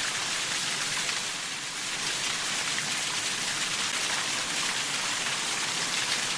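Steady rainfall, a dense even hiss of drops falling on a surface. The recording cuts off abruptly at the end.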